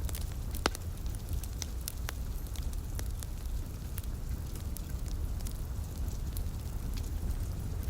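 Wood fire crackling, with scattered sharp pops over a steady low rumble; one pop a little under a second in is louder than the rest. Light rain runs faintly underneath.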